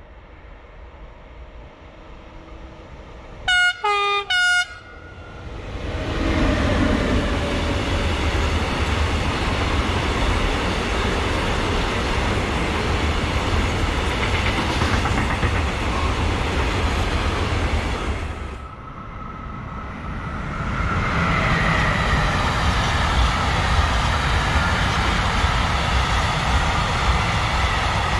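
Train horn sounding two short blasts, followed by the loud rumble and wheel noise of a train passing close by for over ten seconds. The noise dips briefly near the end, then rises again with a high whine over it.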